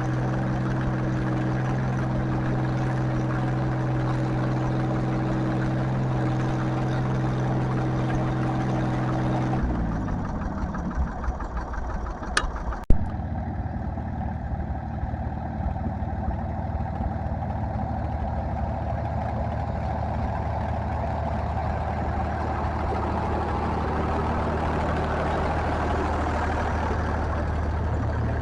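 Tractor engine running at steady high revs, then throttled down with its pitch falling about ten seconds in. A sharp click follows, then a lower, steady engine note that picks up a little near the end.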